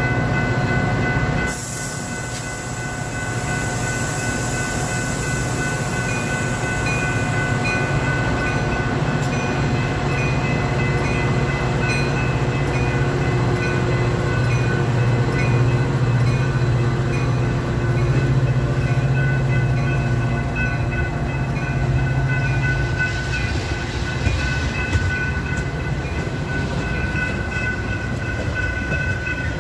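Metra diesel commuter train running through, with the locomotive's engine and the rolling cars heard for about 23 s before easing off. Several steady high tones sound throughout.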